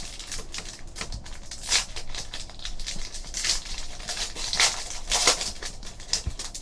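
Trading card packs being opened and cards handled: foil wrappers crinkling and tearing, cards sliding and flicking against each other in short, irregular crackles.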